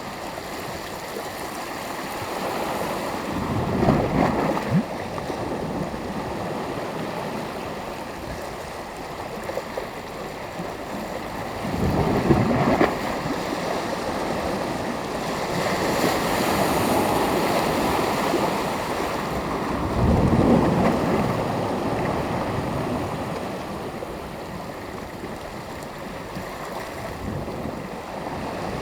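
Sea waves breaking on the shore. Three waves break about eight seconds apart, each a louder surge, with the wash of the surf running steadily between them.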